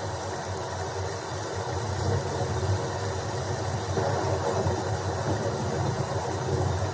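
Rainstorm ambience: a steady, dense rush of rain with a low rumble beneath it, with no separate thunderclaps.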